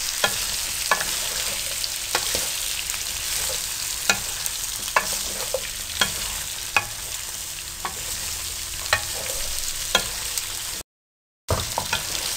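Matchstick-cut potatoes sizzling in hot oil in a metal pan, stirred with a spoon that clicks against the pan about once a second. The sound drops out briefly near the end.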